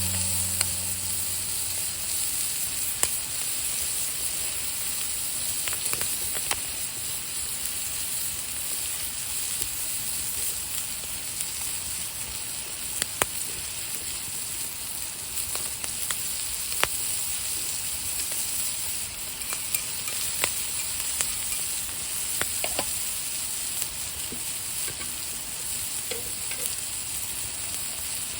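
Steak frying on a hot iron griddle plate: a steady sizzle with scattered sharp pops of spitting fat.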